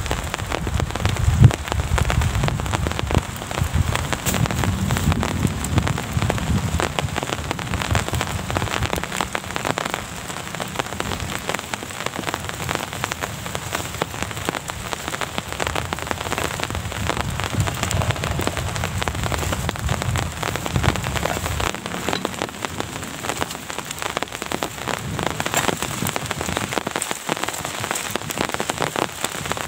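Steady rain, many separate drops pattering on a surface, with a low rumble underneath during the first several seconds and again past the middle.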